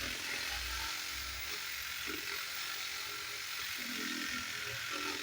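Power saw running steadily as it rips a long sliver off a mahogany beam.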